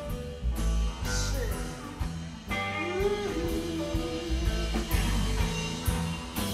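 Live blues-rock jam with no singing: a guitar lead with notes bent up and back, over bass and drums.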